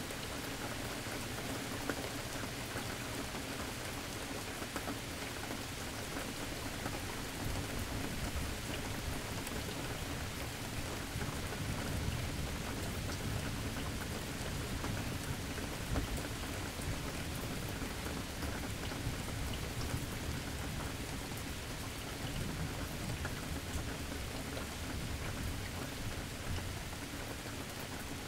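Steady rain falling, with fine pattering drops, and low thunder rumbling in the middle stretch, swelling and fading off again.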